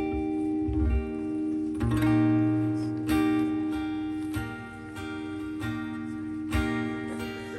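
Acoustic guitar strumming slow, ringing chords, a fresh strum about every second and a half.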